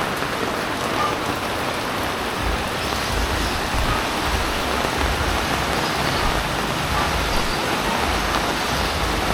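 Heavy rain falling steadily, a dense even hiss, with a low rumble joining underneath about two and a half seconds in.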